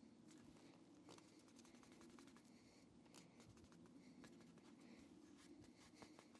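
Near silence: faint, irregular scratching and ticking of a vinyl decal being handled and smoothed onto a panel, over a low steady hum.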